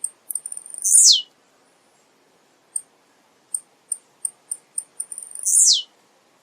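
Male blue-black grassquit (tiziu) singing: a few sharp high chips, then a loud, buzzy note sweeping steeply down in pitch, given twice about four and a half seconds apart, with a run of quick high chips in between.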